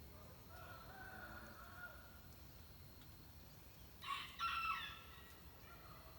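A rooster crowing in the distance: a fainter drawn-out call in the first two seconds, then a louder, short, two-part crow about four seconds in.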